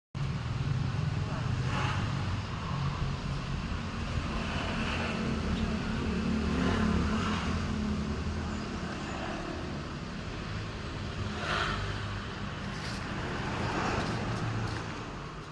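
Road traffic noise: a steady low rumble that swells and eases.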